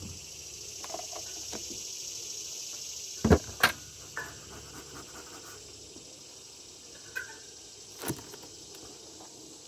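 Honeybees buzzing around an open hive, broken by two loud sharp knocks a little over three seconds in and another near the end.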